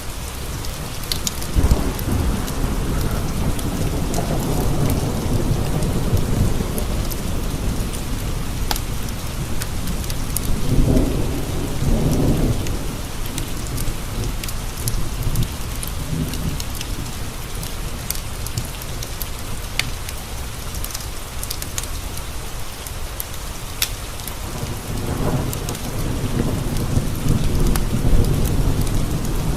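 Steady rain pattering on window glass, with rolling thunder rumbling up three times: about two seconds in, around the middle, and near the end. Occasional sharp crackles from a wood fire sound over the rain.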